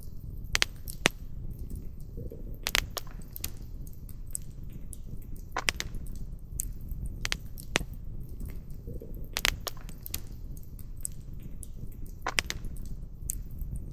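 Irregular sharp cracks and ticks, a dozen or so loud ones a second or more apart among many fainter ones, over a steady low rumble.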